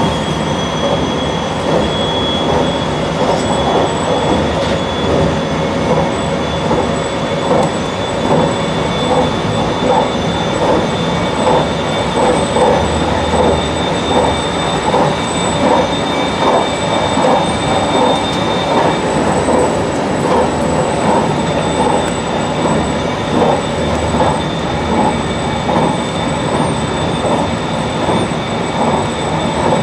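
JR Shikoku 8600 series electric train running at speed, a steady rumble of wheels on rail with a fast, regular clatter and a thin steady high whine.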